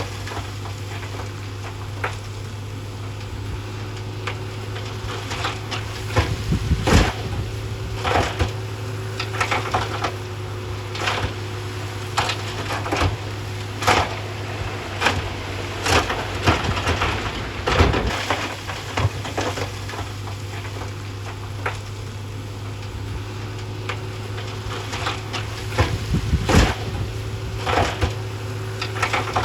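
Heavy earthmoving machinery running with a steady low engine drone, under irregular knocks, cracks and crunches of rock and fill being pushed and dumped.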